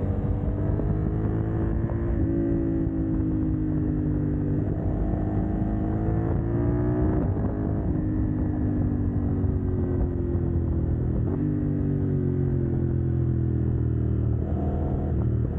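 CFMoto 800NK's parallel-twin engine running through a decat exhaust under way. The engine note rises and falls with the revs, with a few sharp changes in pitch.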